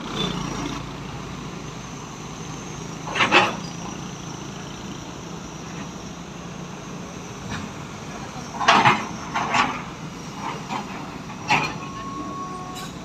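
A heavy vehicle engine running steadily at low revs, with a few brief louder sounds over it and a short steady tone near the end.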